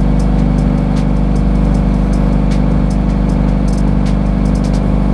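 Scion FR-S's 2.0-litre flat-four engine idling steadily, with scattered sharp ticks over it, while the new headlights are tested.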